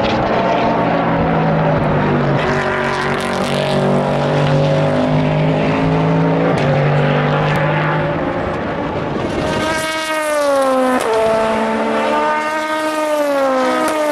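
Endurance race cars running at speed past the trackside: several engines overlap at first, then one car's engine stands out, its note gliding down and changing pitch suddenly twice, the second time near the end, as it shifts gear.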